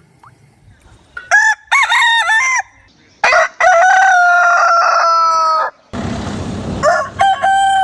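Rooster crowing: a few short clucking calls, then one long crow held for about two seconds. A short burst of hissing noise follows, then more short calls near the end.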